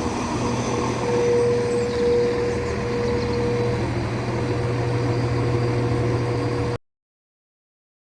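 Diesel engine of an East Midlands Railway Class 170 diesel multiple unit idling steadily, a constant low hum with a steady tone above it; it cuts off suddenly near the end.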